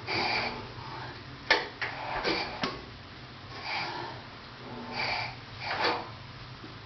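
Kohler 17 hp Series 2 twin-cylinder engine turned over slowly by hand at the crankshaft: a breathy puff of air every second or so as a cylinder comes up on compression, with a few sharp clicks about two seconds in. The puffs are the sign that the engine still has compression.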